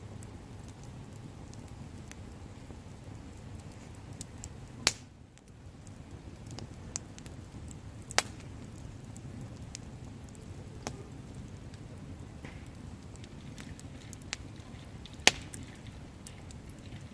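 Wood campfire burning with a steady low rumble, crackling with scattered sharp pops, three of them loud.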